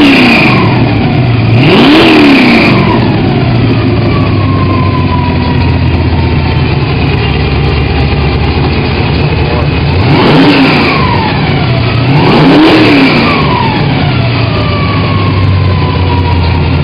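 Unmuffled Chevy 350 small-block V8 crate engine, a 410 hp build, running loud. It is blipped on the throttle, coming down from one rev at the start and revving again about two seconds in, then twice more around two-thirds of the way through, settling back to idle between the revs.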